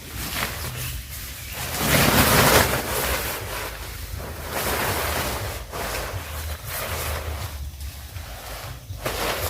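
Gusts of wind buffeting the microphone: a surging rushing noise with a low rumble, loudest about two seconds in, then easing into smaller surges.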